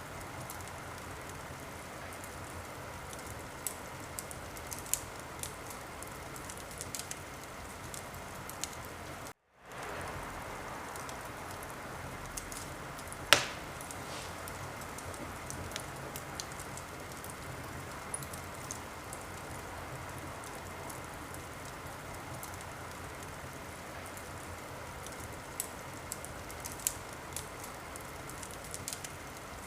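Wood fire in a fireplace crackling: a steady hiss with scattered sharp pops and one much louder pop near the middle. The sound drops out briefly about a third of the way through.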